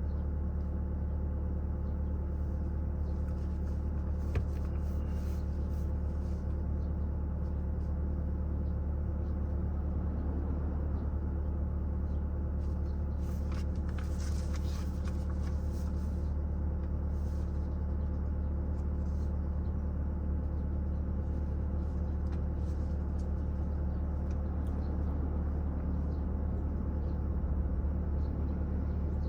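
A vehicle engine running at a steady idle: a constant low rumble that does not change for the whole stretch, with a few faint clicks about four seconds in and again around halfway.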